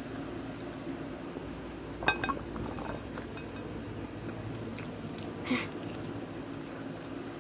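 Cutlery clinking against a dish in a quick cluster of clicks about two seconds in, then one short scrape about five and a half seconds in, over a steady low hum.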